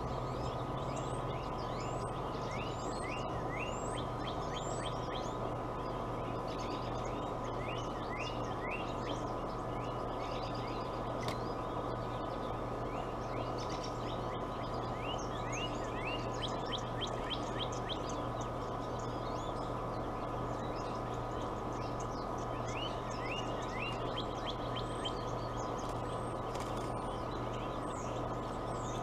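Birds chirping in quick series of short, high notes, repeated on and off throughout, over a steady low hum.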